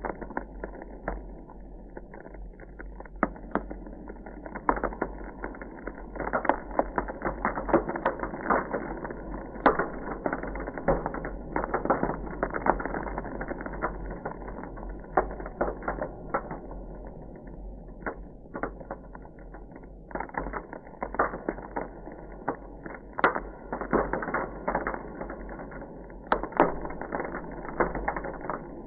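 Ice crackling: a dense, irregular run of sharp clicks and pops, busiest in the middle, over a steady low rumble.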